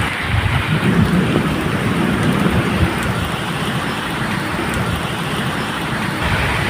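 Steady medium rain falling, with a low rumble of distant thunder underneath.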